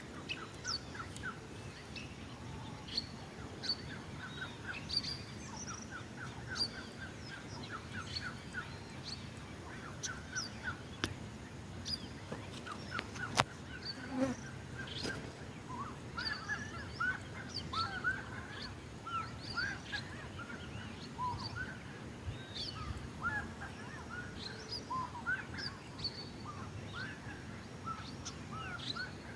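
Several kinds of wild birds calling at once: a busy, overlapping chorus of short chirps, whistled notes and quick repeated trills. A couple of sharp clicks come through around the middle.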